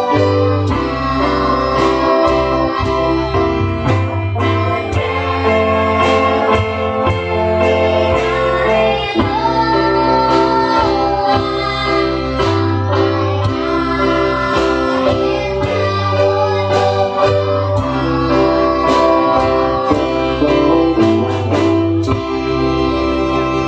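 A song sung as a duet by young singers, with instrumental accompaniment and a steady bass line throughout.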